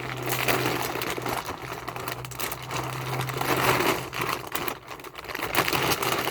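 Small, hard, dry cereal pieces rattling as they are poured out, a dense run of quick clicks with a few louder surges.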